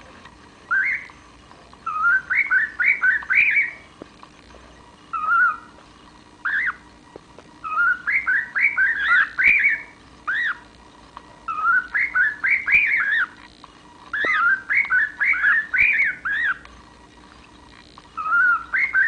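Cockatiel whistling: repeated bursts of quick up-and-down whistled notes, each burst a run of several notes, with short pauses between bursts.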